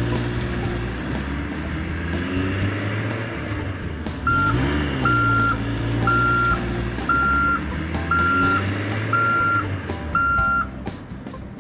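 Cartoon garbage truck engine running steadily. About four seconds in, a reversing beeper joins it with seven evenly spaced beeps, about one a second.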